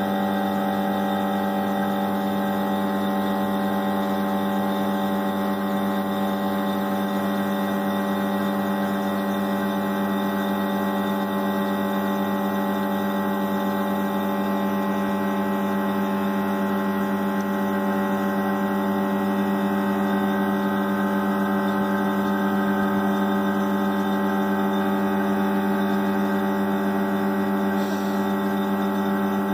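Electric vacuum pump of a car air-conditioning service machine running with a steady hum, pulling the emptied AC system down to vacuum to draw out moisture and show any leak.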